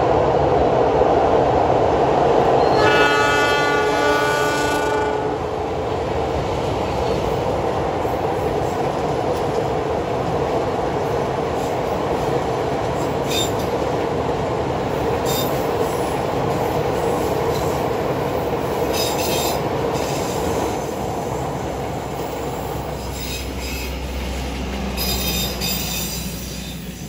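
Diesel-hauled passenger train crossing a steel truss bridge. The locomotive sounds its horn once, for about two seconds, about three seconds in. Then the coaches roll past with steady wheel and rail noise and now and then a short high squeal from the wheels.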